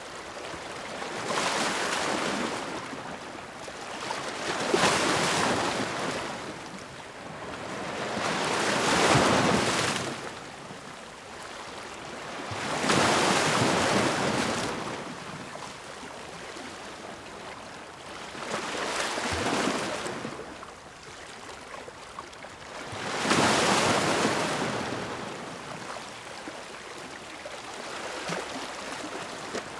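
Ocean waves crashing against rocks, about six in all: each breaks in a loud rushing surge and falls back to a softer wash before the next.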